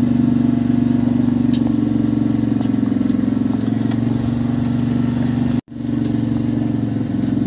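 Fishing boat's engine running steadily, a low, even drone; the sound drops out for an instant about five and a half seconds in.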